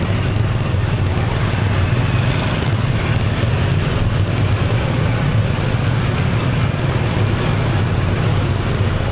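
Steady motorbike and street-traffic noise heard from a bike riding through city traffic, with a low rumble the loudest part.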